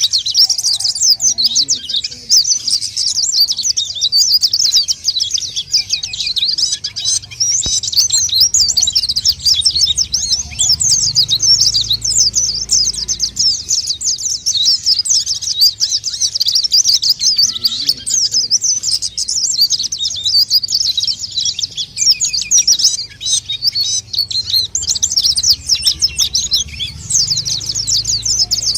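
White-eyes (pleci) singing vigorously: a dense, unbroken stream of rapid, high-pitched twittering chirps, the kind of call played as a lure for white-eyes.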